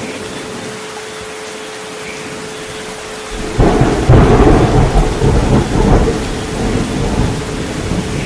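Steady rain with a thin steady 432 Hz tone underneath. About three and a half seconds in, a loud roll of thunder breaks in and rumbles on, slowly easing off.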